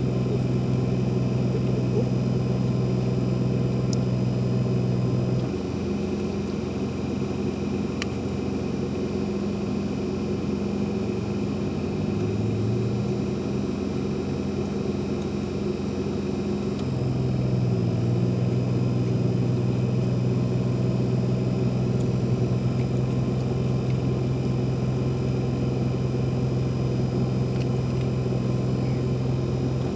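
A steady low engine hum whose pitch pattern shifts about five seconds in and shifts back around seventeen seconds in.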